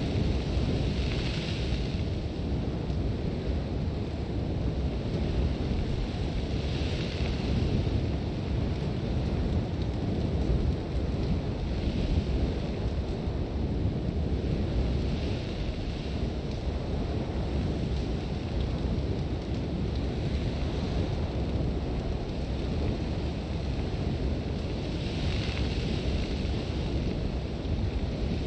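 Sandstorm wind blowing hard with a steady low rumble, and gusts of hissing blown sand that swell and fade every few seconds.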